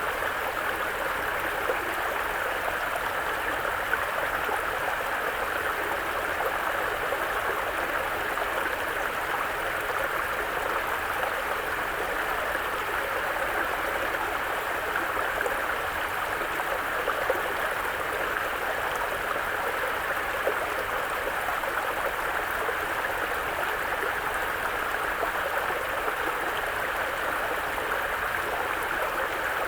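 Mountain brook running over rocks: a steady, even babble of flowing water.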